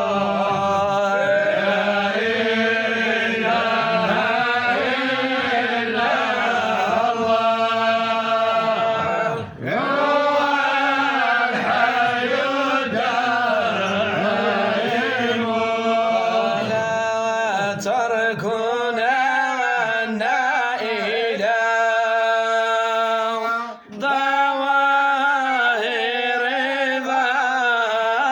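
A male voice chants an Arabic Sufi devotional poem in long, melismatic sung phrases over a steady low held note. The singing breaks off briefly twice, about nine and twenty-four seconds in.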